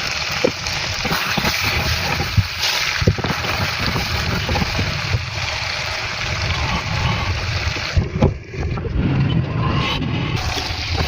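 Chicken kadai cooking in a kadai, a steady sizzle with a few sharp knocks of a spatula against the pan.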